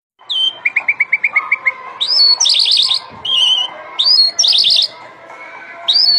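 A bird singing: a quick run of about nine short high chirps, then a phrase of a rising whistle followed by a fast trill, repeated about every two seconds.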